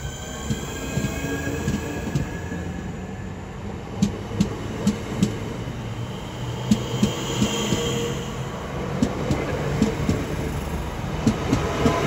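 Class 465 Networker electric multiple unit pulling away: a fading whine at several pitches at first, then the wheels clicking over rail joints and points, often in quick pairs, over a steady low rumble.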